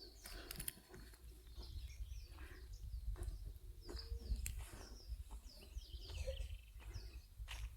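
Birds chirping: many short, high calls that dip in pitch, scattered throughout. Light knocks and a steady low rumble sit underneath.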